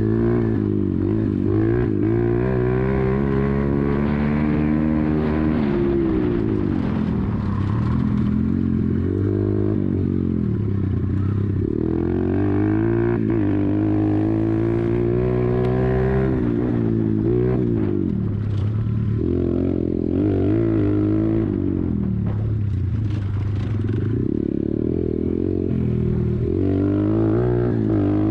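YCF 125 pit bike's single-cylinder four-stroke engine under way, its revs climbing and dropping again and again as the rider accelerates and backs off.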